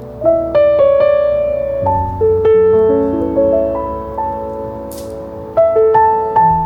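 Background piano music, a slow melody over held chords.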